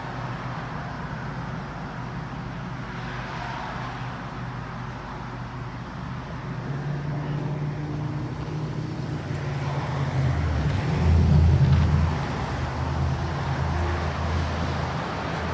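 Idling engine of a 2012 GMC cutaway box truck, a steady low hum that grows louder partway through and swells briefly about eleven seconds in.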